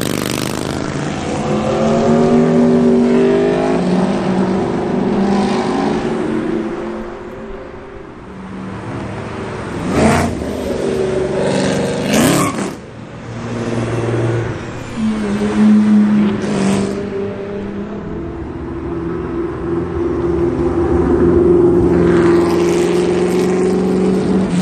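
Modified car engines revving and accelerating at a car meet, with the engine pitch rising and falling repeatedly. Two brief louder bursts come about ten and twelve seconds in.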